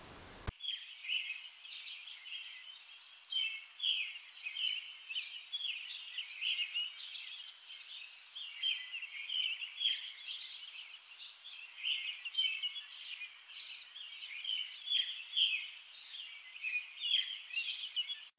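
Small birds chirping in quick, short calls, several a second, high and thin with no low sounds under them.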